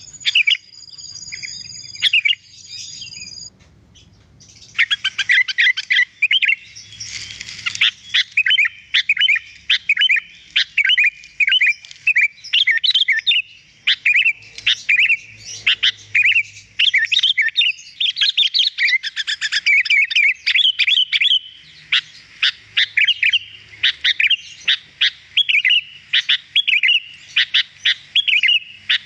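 Sooty-headed bulbul (kutilang) singing vigorously: a rapid, continuous run of chirps and short whistled notes. It opens with thin steady high tones for about three seconds, breaks off briefly, and resumes about four to five seconds in.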